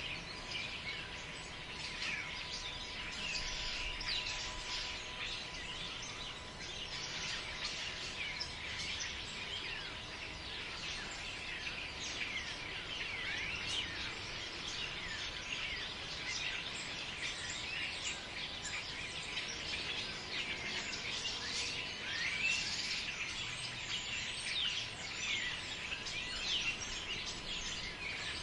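Forest ambience: a dense chorus of many small birds chirping and calling over one another, unbroken throughout, over a soft background hiss of wind in the trees.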